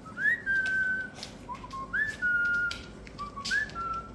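Someone whistling three notes to call Labrador puppies, each note a quick upward swoop then held steady, about one and a half seconds apart.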